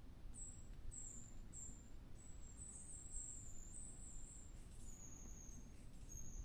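Thin, very high-pitched bird calls: a string of short, slightly falling notes, at first about two a second and then in quicker runs, faint over a steady low rumble.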